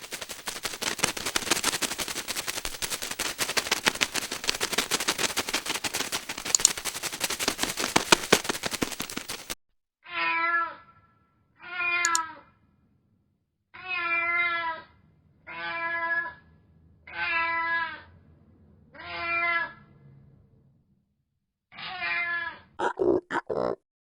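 A dense, rapid rattling crackle for the first nine seconds or so, then a domestic cat meowing six times, each meow about a second long with short pauses between, and once more near the end.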